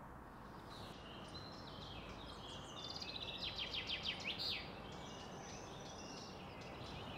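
Songbirds singing and chirping over a steady faint outdoor background hiss, with a quick run of repeated chirps about three to four and a half seconds in.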